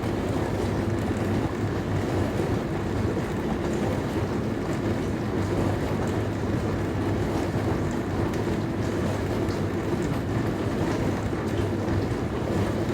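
Dishwasher running: a steady low hum from its pump motor under a constant rushing wash of water.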